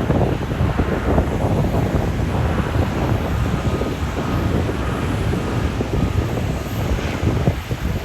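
Strong gusting wind buffeting a phone's microphone, a dense rumble with irregular low thumps.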